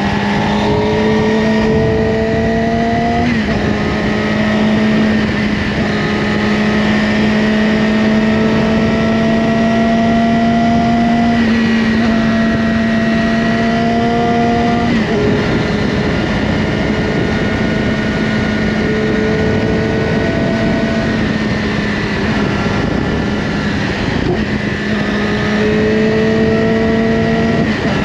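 Yamaha R6's inline-four engine through an Akrapovic slip-on exhaust, running at steady revs while riding. Its pitch holds level, with small drops and rises every few seconds.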